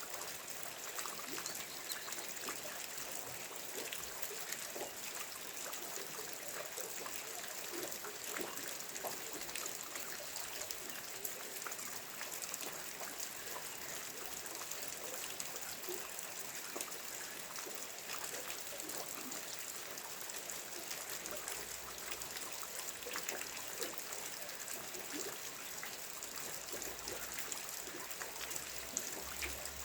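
Steady rain falling: an even hiss made up of many separate drops.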